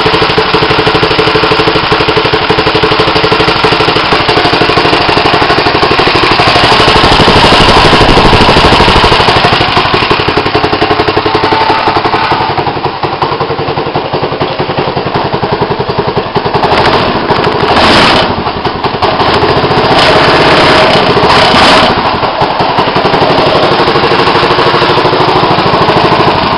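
Murray Explorer go-kart's 6 hp Tecumseh Power Sport single-cylinder engine idling steadily right after a cold start with no priming. In the second half its sound wavers, with a few short louder bursts.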